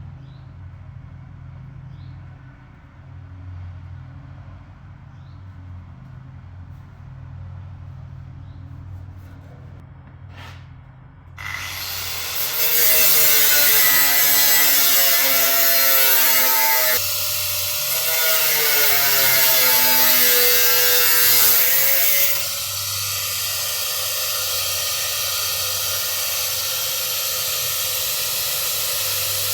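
A power tool runs in the workshop after a quiet stretch of low hum. It starts about a third of the way in, and its pitch sags and recovers several times as it cuts under load. It then settles into a steadier, slightly quieter run.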